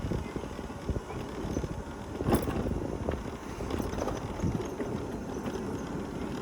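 Old mobility scooter driving along, its body rattling with irregular clicks and knocks over a low rumble, one sharper knock about two seconds in.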